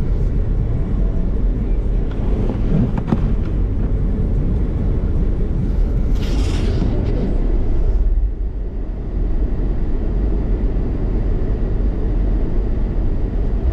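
Car driving, a steady low rumble of engine and road noise, with a brief hiss about six seconds in.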